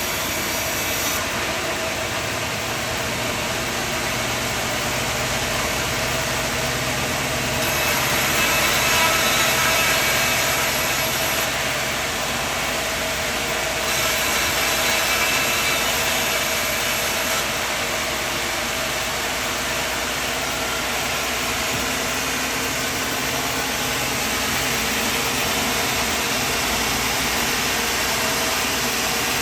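Portable sawmill running: a steady engine with the noise of the saw, getting louder and hissier twice, about a quarter and about half way through.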